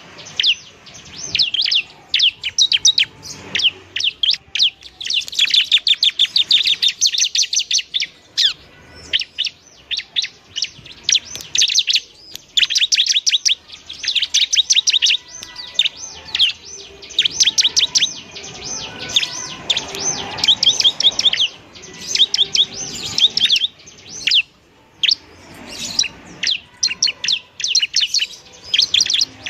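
Bar-winged prinia (ciblek) singing: loud, rapid runs of high, sharp chirps, each run lasting a second or two, separated by short pauses.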